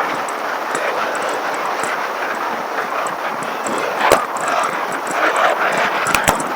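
Steady rushing road and wind noise from riding a bicycle, with a sharp click about four seconds in and two more close together near the end.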